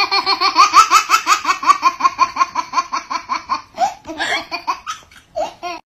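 High-pitched laughter: a long run of quick, even 'ha-ha' bursts, about six a second, that breaks into a few shorter, separate bursts near the end.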